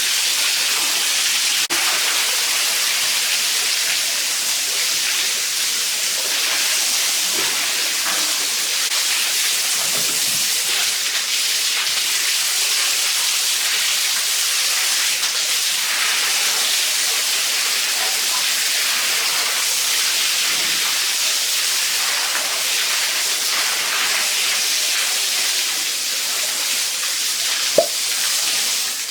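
Steady hiss of spraying water, like a hose jet. A short sharp high sound comes near the end.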